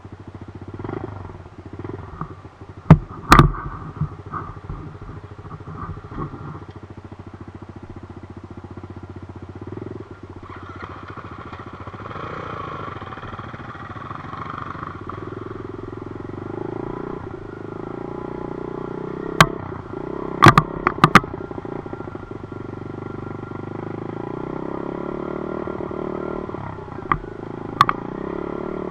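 Dirt bike engine running, its pitch rising and falling as it is ridden, with a few loud sharp knocks: a pair about three seconds in, a cluster around twenty seconds and one near the end.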